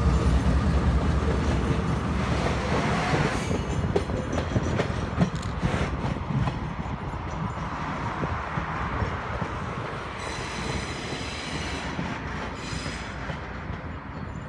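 Train passing on the rails. A heavy rumble fades away, the wheels click over rail joints about a third of the way in, and a high wheel squeal comes in briefly near the end.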